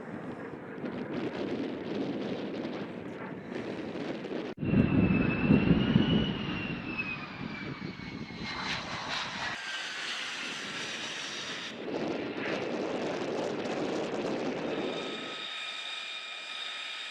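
Military jet aircraft engines across several spliced clips, with abrupt changes between them. The loudest stretch, about five seconds in, is a jet's rumble with a whine that rises and then falls; near the end a steadier high-pitched turbine whine sounds.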